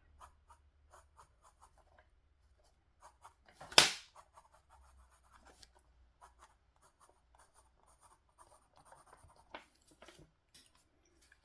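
Drawing on paper: many short, quiet scratching strokes of a pencil or pen, with one much louder sharp stroke a little under four seconds in.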